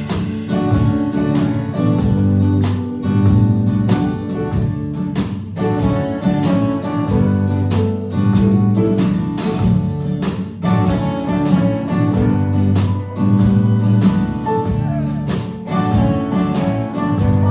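Live band playing an instrumental passage of a rock song, with guitars over bass and a steady drum beat.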